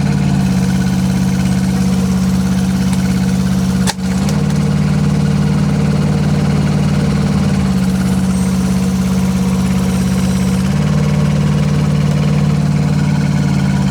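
Kubota diesel engine of a Rippa R10 one-ton mini excavator running steadily, its note shifting slightly a few times, with a brief break about four seconds in.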